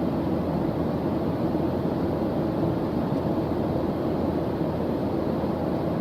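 Steady white-noise study track: an even, unchanging rush with most of its weight in the low range and no strokes or tones.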